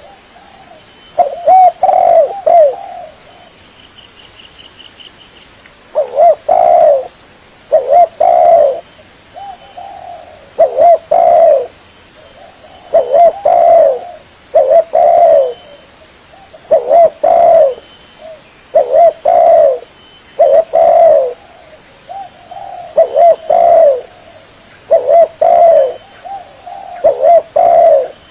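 Spotted dove (tekukur) cooing over and over, each phrase a quick run of a few hollow coos, repeated about every two seconds with short pauses.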